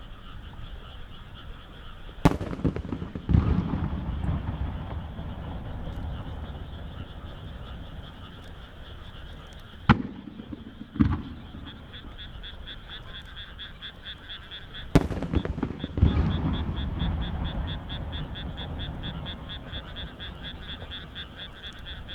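Large aerial firework shells going off three times, each a sharp bang followed about a second later by a longer rolling boom. Under them runs a steady, fast-pulsing chorus of frogs.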